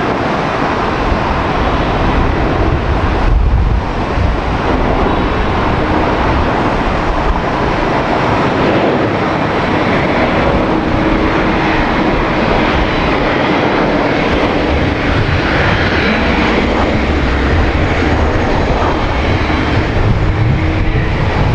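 Airliner engines running loud and steady: a dense rushing noise with a faint humming tone held through it.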